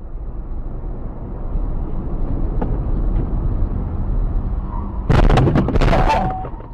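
Steady low road and engine rumble of a moving car, then about five seconds in a sudden loud crash with a rapid clatter of cracks lasting about a second, as in a vehicle collision.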